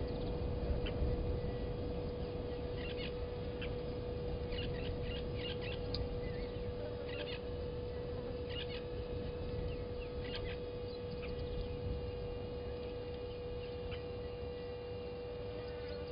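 Short, sharp bird calls in scattered clusters, over a steady hum and a low rumble.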